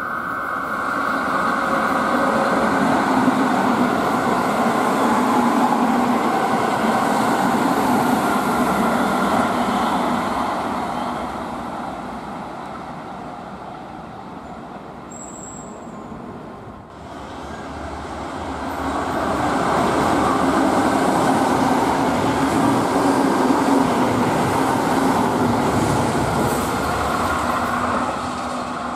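Keihan electric trains running past one after another, wheels rumbling on the rails. The first train's rumble swells and then fades away by about halfway. A second train then brings it up again, and it eases off near the end.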